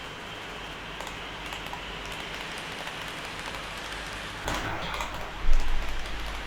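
Handling noise over a steady hiss: light clicks, a rustle about four and a half seconds in, then a heavier thump a second later.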